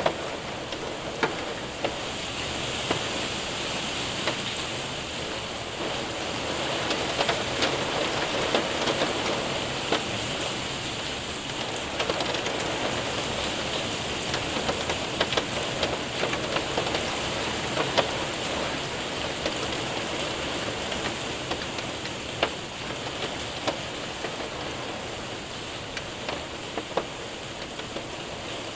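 Steady heavy rain and hail drumming on a window and roof: a dense hiss with frequent sharp ticks of separate hailstones and drops striking.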